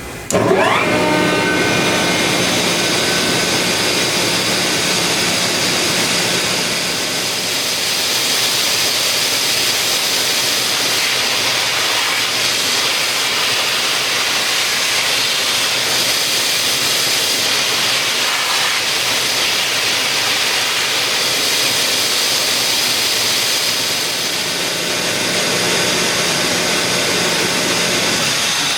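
Sullair LS-10 25 hp rotary screw air compressor starting up, its pitch rising quickly in the first second, then running steadily and loudly with a rushing noise and steady whine.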